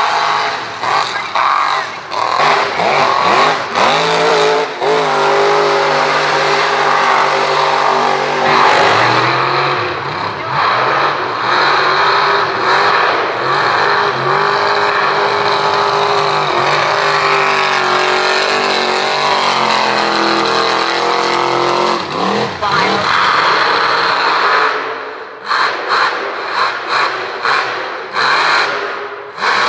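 Mega mud truck engine run hard at high revs. Its pitch rises and falls, with choppy throttle blips in the first few seconds and again in a string of short bursts near the end.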